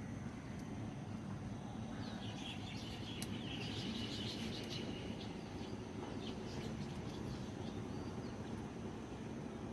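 Small birds chirping briefly in a quick cluster of short high notes a couple of seconds in, over a steady low background rumble.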